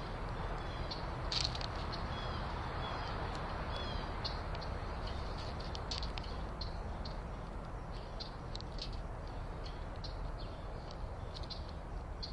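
Small songbirds chirping: many short, high call notes and a few brief falling whistles, scattered irregularly, over a steady low background rumble.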